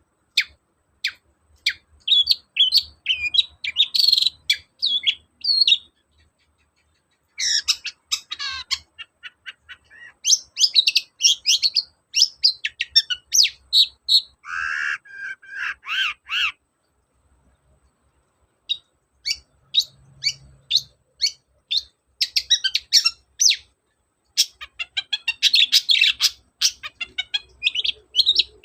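Long-tailed shrike (cendet) singing a lively, varied song of rapid sharp chips and fast rattling trills, in bursts that break off twice for a second or two.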